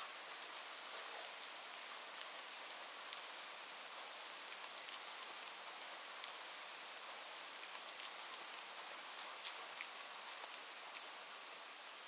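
Steady rain, an even hiss sprinkled with frequent sharp little ticks.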